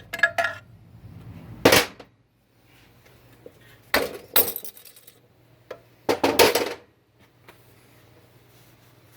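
Metal transmission parts clanking and clinking as they are handled and set down: a sharp clank a little under two seconds in, two more around four seconds, and a longer rattling cluster a little after six seconds.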